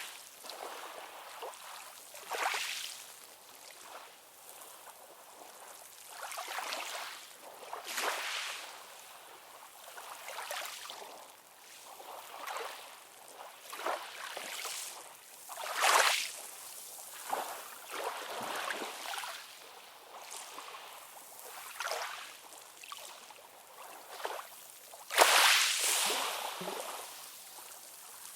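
Small ocean waves lapping and splashing in short, irregular swishes every second or two, with a louder splash near the middle and the loudest one near the end.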